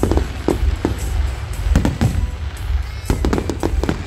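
Aerial firework shells bursting in a string of sharp bangs, thickest about two seconds in and again near the end, over music.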